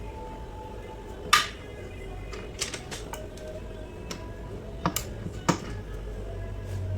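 A handful of sharp metallic clicks and clinks, the loudest about a second in, from gearbox parts and hand tools being handled, over faint background music.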